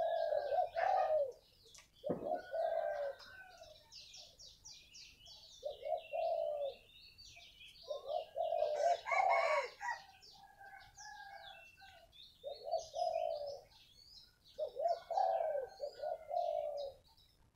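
Spotted dove cooing in repeated short phrases, about seven in all with brief pauses between, while small birds chirp high and thin throughout.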